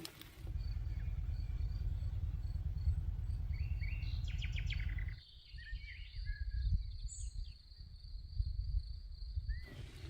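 Outdoor ambience: birds chirping, with a thin steady high insect buzz and a low rumble, likely wind on the microphone, that cuts off abruptly about halfway through.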